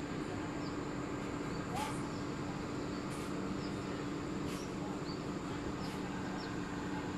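Small birds chirping, short high chirps every second or so, over a steady background hum and noise.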